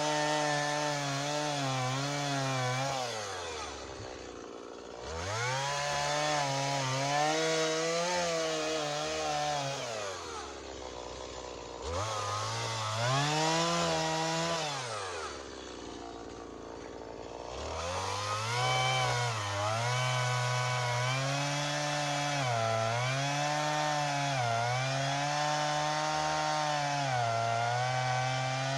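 Stihl two-stroke chainsaw cutting wood. It runs at high revs, drops back to idle three times, then runs on in a long cut whose pitch repeatedly sags and recovers as the chain bites.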